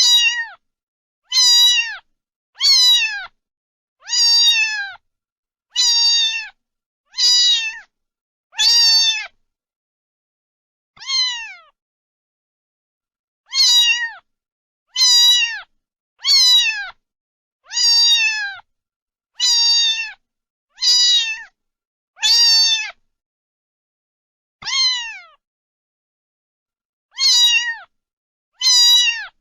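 Domestic cat meowing over and over, about eighteen meows in all, each under a second long and dropping in pitch at the end, with a few longer pauses between runs.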